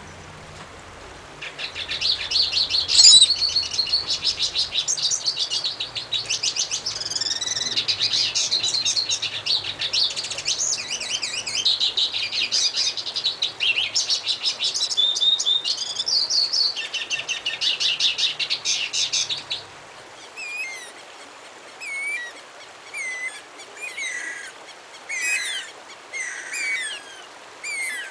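Songbird singing a long, fast, unbroken twittering song for about eighteen seconds. About twenty seconds in, a different bird takes over with short separate whistled phrases, roughly one a second.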